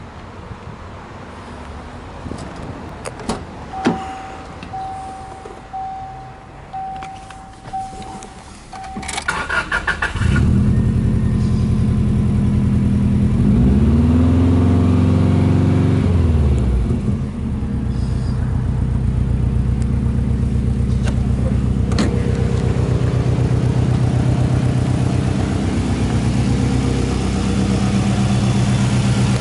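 A few clicks and a chime beeping in a steady on-off pattern, then the starter cranks for about a second and the Subaru Impreza WRX Type RA's EJ20 turbocharged flat-four catches about ten seconds in. It runs at a fast idle of about 2,000 rpm, then the revs drop to a lower, steady idle about seventeen seconds in.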